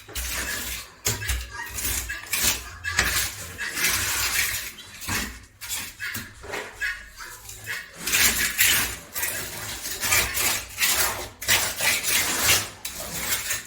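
Irregular scraping, rustling and clattering noises in quick, uneven strokes, with a denser stretch from about eight seconds in.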